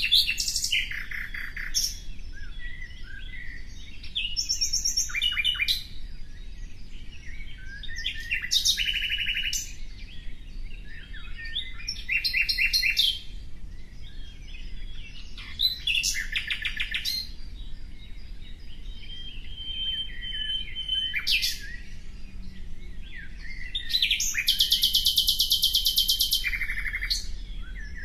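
A songbird singing a series of short phrases of rapid, buzzy trills, repeated every few seconds. The longest and loudest phrase comes near the end.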